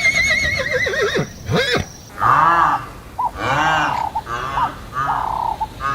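A horse whinnies: a high, quavering call that falls away over about a second and a half. It is followed by a run of about five short, repeated animal calls.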